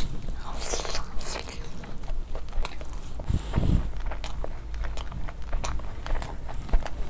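Close-miked chewing of a mouthful of chicken: a run of small wet clicks and crunches, with a couple of low thuds about three and a half seconds in.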